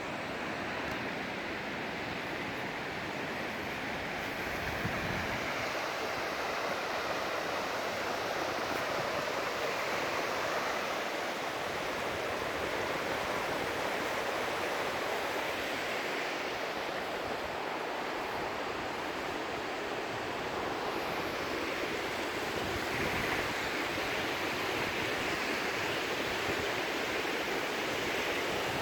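Steady rush of flowing water from a stream or river, a constant noise with no pauses.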